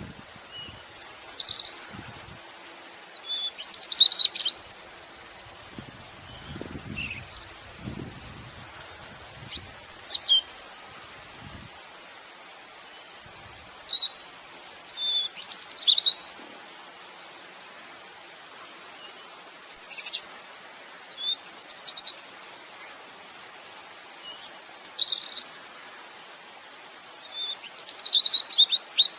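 Songbird singing: short, high-pitched song phrases repeated every few seconds over a steady high-pitched whine.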